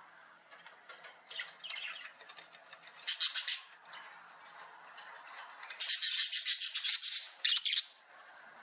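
A bird chirping and squawking in short, high bursts, with the longest and loudest burst lasting about a second roughly two-thirds of the way through.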